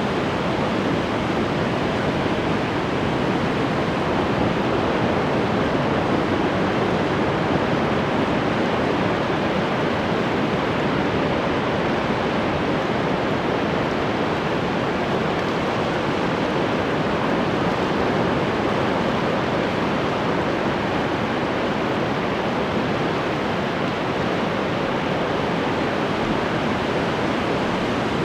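Ocean waves washing onto the shore in a steady, continuous rush of surf with no distinct breaks.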